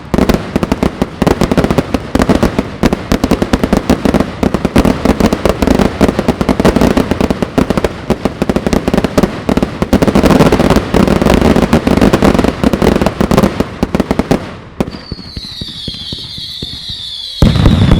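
Fireworks going off in a dense, rapid barrage of bangs and crackles. About fifteen seconds in the barrage thins out and a high whistle glides down in pitch. A last loud round of bangs follows near the end.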